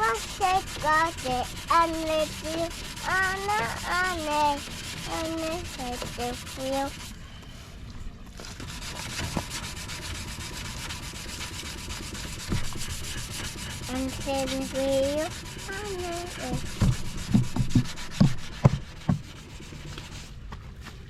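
Wet sanding of a plastic headlight lens: a steady, rough rubbing scrape. A child sings over it for the first several seconds and again briefly in the middle, and a few knocks come near the end.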